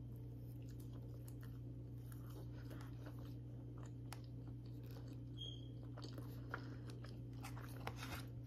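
A person chewing a mouthful of soft Cinnabon cinnamon roll, with faint wet mouth clicks, over a steady low hum.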